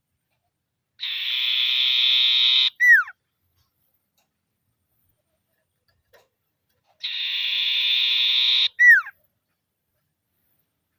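Common iora (cipoh) giving its rattling 'ngetir' call twice, as a challenge to a rival. Each call is a buzzy trill of nearly two seconds ending in a short down-slurred whistle.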